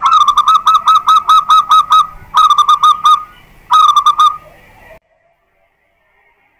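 Zebra dove (perkutut) cooing loudly: a quick run of about ten clear staccato notes, then two shorter runs of about five notes each. The song breaks off sharply.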